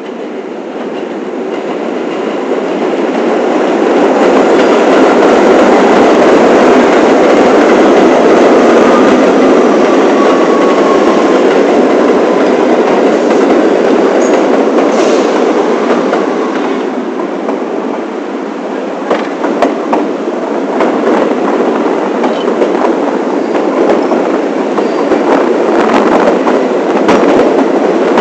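New York City 1-line subway train running at speed, its noise building over the first few seconds and then holding steady. A faint wheel squeal glides near the middle, and clicks of wheels over rail joints come through in the last third.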